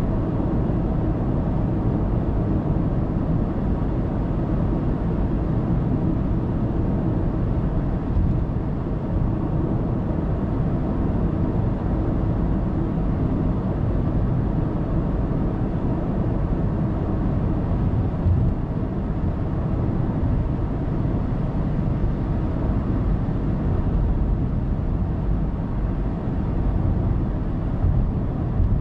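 Car travelling at expressway speed: a steady rush of tyre and road noise with a low engine hum. Two brief thumps stand out, one about a third of the way in and one about two-thirds in.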